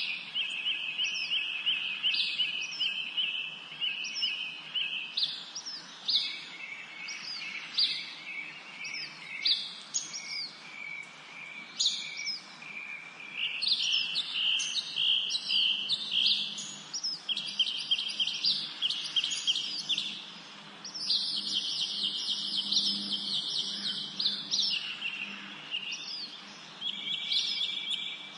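Several songbirds singing together in a spring forest: rapid trills of repeated notes overlapping with short chirps that drop in pitch, all continuous, over a faint steady background hiss.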